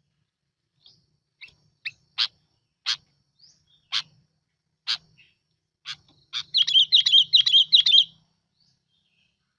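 Bulbul song played as a lure call. It starts with single sharp chirps about once a second. About six and a half seconds in comes a quick run of rapid, bubbling repeated notes, which are the loudest part.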